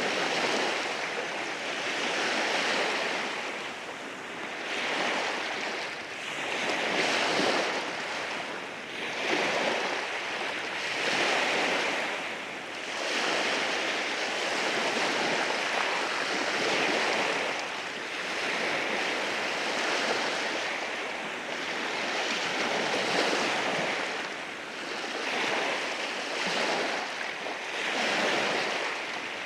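Waves rolling in and washing over rocks on a rocky shore, a continuous rush that swells and eases every couple of seconds.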